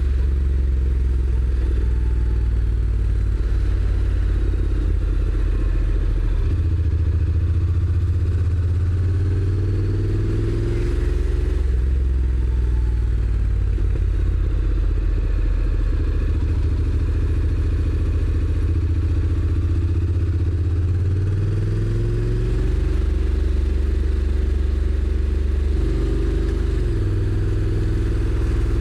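Honda NC750X's parallel-twin engine running under way, with the DCT gearbox shifting. The engine note climbs and then steps back down several times as it pulls through the gears.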